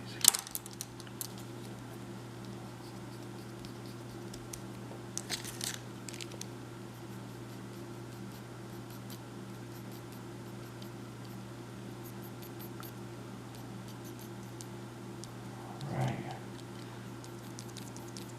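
Short scratching strokes of a drawing tool on paper, sketching fur, with a sharp knock just after the start, over a steady low electrical hum.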